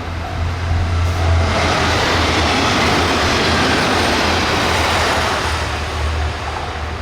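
KiHa 71 series 'Yufuin no Mori' diesel railcar train passing at speed, about 83 km/h, with a steady low engine hum and a loud rush of wheel and running noise that builds about a second and a half in and fades near the end. A level-crossing bell rings in a repeating pattern under it, audible at the start and again as the train noise fades.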